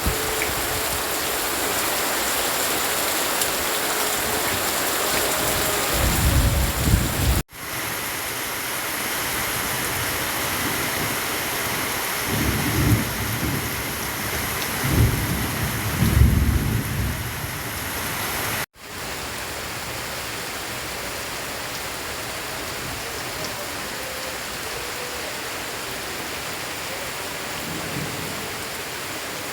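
Heavy rain pouring steadily, with low rolls of thunder rising and falling several times. The sound cuts out for an instant twice.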